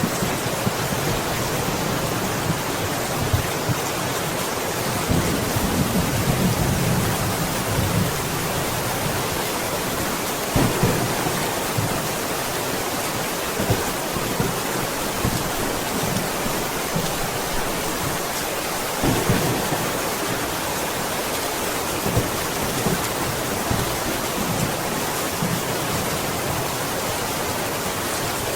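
Steady rain, an even hiss of falling drops, with a low rumble swelling in and out underneath and a few sharp, louder drops.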